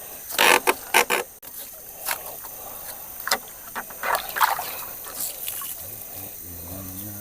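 Irregular splashes and knocks in shallow river water, several in quick succession early on and a few more scattered after, as of someone moving through water or handling bamboo poles in it.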